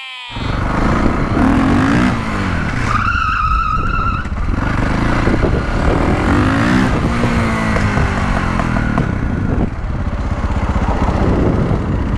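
Street-legal dirt bike engine accelerating hard under heavy wind rush on the helmet microphone; the engine note climbs in pitch twice as it pulls through the gears. A short high squeal sounds about three seconds in.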